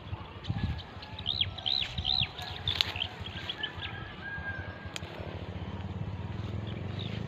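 A small bird calls: three quick arched chirps, then shorter twittering notes and a few thin whistles. Under it a low rumble grows into a steady drone in the second half.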